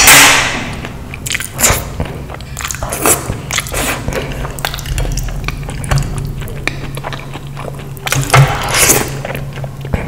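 A person biting and chewing food close to the microphone, in irregular bursts; the loudest come right at the start and again about eight to nine seconds in.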